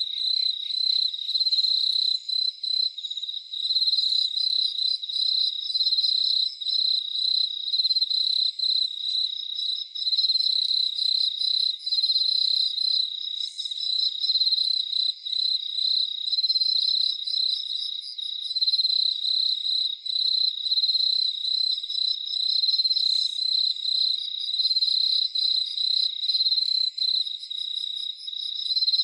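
Crickets chirping in a dense, continuous night chorus: a high-pitched pulsing trill with overlapping callers.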